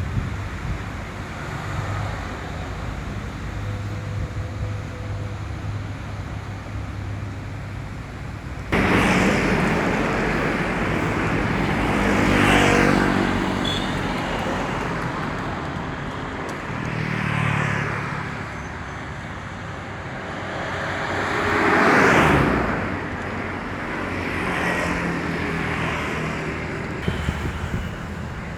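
Road vehicles passing by one after another, each swelling and fading with a falling pitch as it goes past, over steady outdoor noise. About nine seconds in, the sound jumps suddenly louder.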